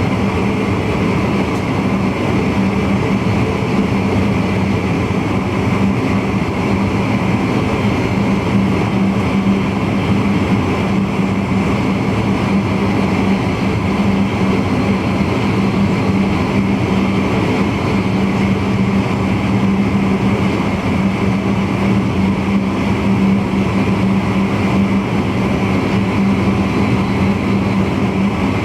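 VIRM double-deck electric intercity train running at speed, heard from inside the driver's cab: a steady rumble of wheels on rail with a constant low hum.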